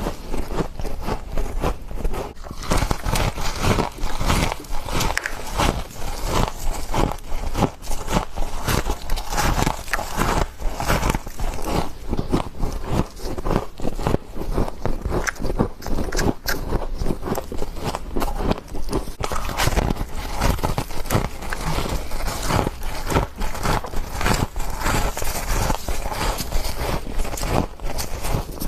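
Someone biting and chewing frost, packed frost crunching and crackling in the mouth in quick, dense little clicks, heard up close.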